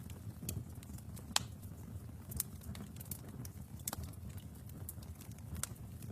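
Wood fire burning in a fireplace, crackling with irregular sharp pops over a low steady rumble of flames.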